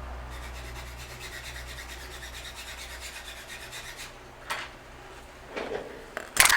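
An iPhone 12 Pro logic board half rubbed back and forth face down on paper over a flat surface, grinding its solder balls down to an even height, in quick, even strokes. The rubbing stops about four seconds in, followed by a few short handling noises and a louder one near the end.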